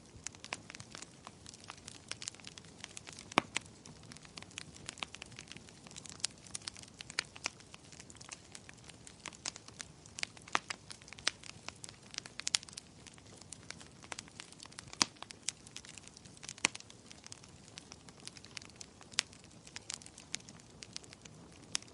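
Wood fire crackling in a fireplace: an irregular run of sharp pops and snaps, several a second, over a faint low hiss.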